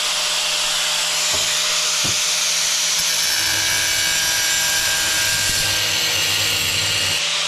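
Angle grinder running steadily with a high hiss of noise over a constant hum. From about three seconds in a deeper hum with several extra tones joins, then drops away just before the end.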